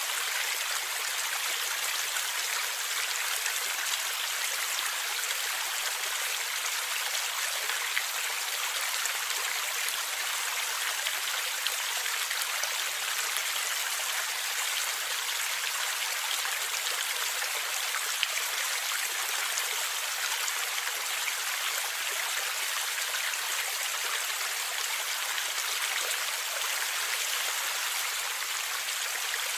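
Shallow stream water flowing and gurgling over rocks, a steady bright rushing with small splashes.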